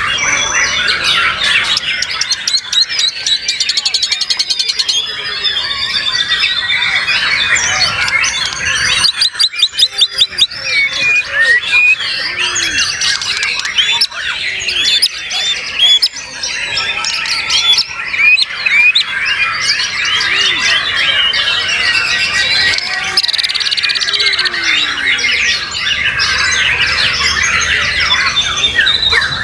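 Several white-rumped shamas singing at once, a dense overlapping mix of whistles, trills and chattering phrases. About nine seconds in, one bird gives a run of rapid, loud repeated notes.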